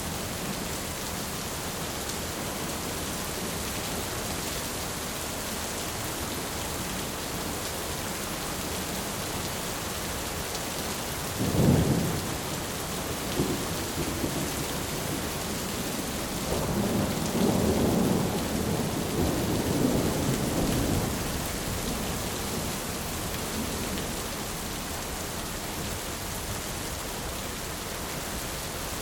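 Thunderstorm ambience: steady heavy rain, with a sharp clap of thunder about a third of the way in, and a longer rolling rumble of thunder a little past the middle.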